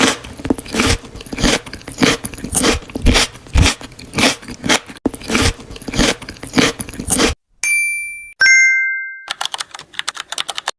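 Close-miked crunching of crisp food being chewed, a rapid run of crackles for about seven seconds. Near the end, two short electronic chime tones, a sound effect, followed by fainter crackling.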